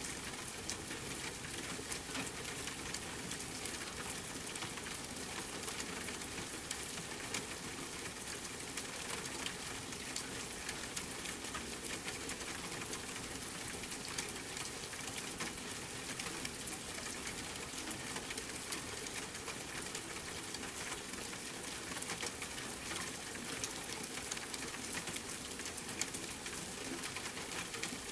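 Steady rain mixed with a crackling fireplace: an even hiss dotted with many small pops and ticks.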